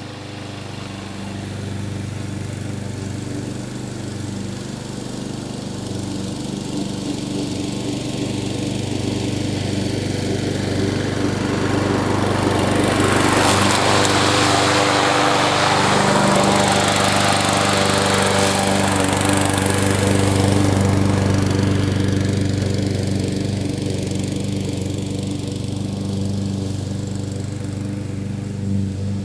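Walk-behind gasoline lawn mower with a grass bag running steadily while cutting tall grass, the engine note growing louder in the middle and easing off again.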